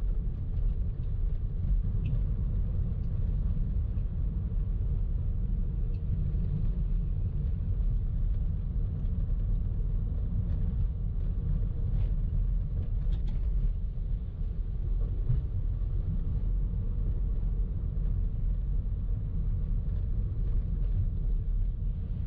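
A car driving: a steady low road and engine rumble with a faint hum above it and no sudden changes.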